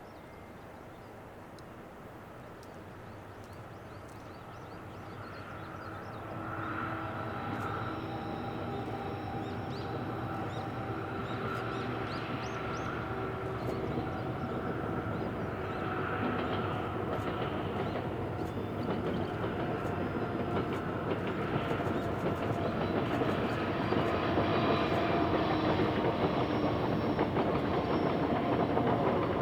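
Korail 7600-class GE PowerHaul diesel-electric locomotive hauling a passenger train, engine running and wheels clicking over the rails, growing steadily louder as it approaches.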